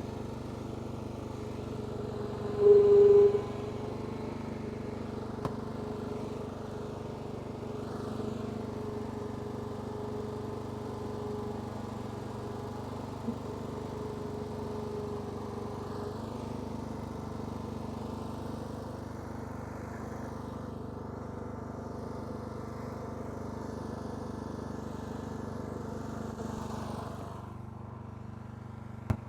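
Riding lawn mower engine running steadily while it pulls the rope to lift the well-digging pump. There is a brief louder tone about three seconds in, and the engine sound drops off near the end.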